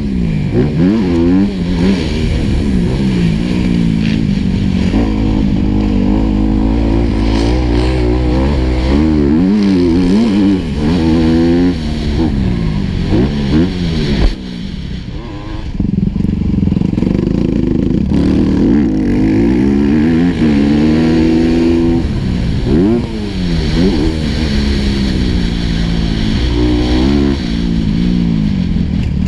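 Four-stroke motocross bike engine revving up and backing off again and again, its pitch climbing and falling through the gears, with a short drop in level about fourteen seconds in as the throttle closes.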